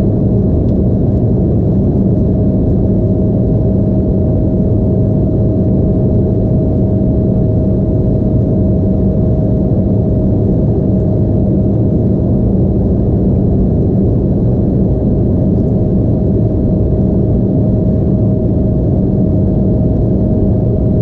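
Steady cabin noise inside an Embraer E175 airliner: the hum of its GE CF34 turbofan engines and the rush of air, with a constant whine held at one pitch throughout.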